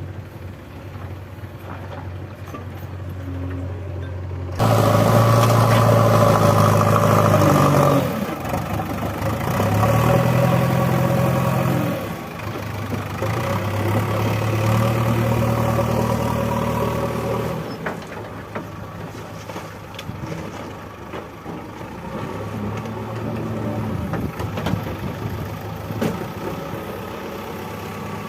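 JCB 3DX backhoe loader's diesel engine idling, then revving up sharply about four and a half seconds in. It rises and falls in three long surges of a few seconds each as it works the hydraulics digging and loading mud, then settles to a lower, uneven run with one smaller rise near the end.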